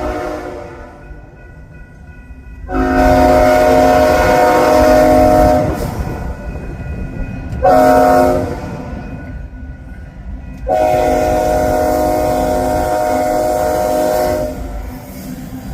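Diesel locomotive's multi-note air horn sounding long, long, short, long, the standard warning for a grade crossing, over the low rumble of the approaching coal train.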